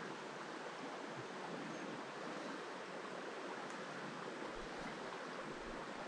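Steady rush of a flowing creek, an even hiss of moving water with no changes.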